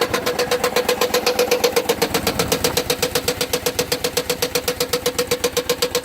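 Chrysler 300C's Hemi V8 running with a steady, rhythmic knock, about ten sharp raps a second: the engine knocking.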